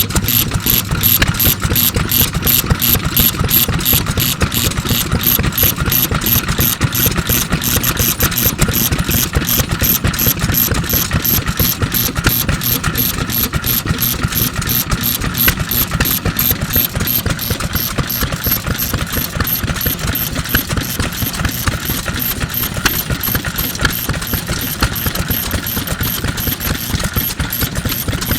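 1948 National Type FK 3 hp single-cylinder stationary engine running steadily, with a rapid, even mechanical clatter.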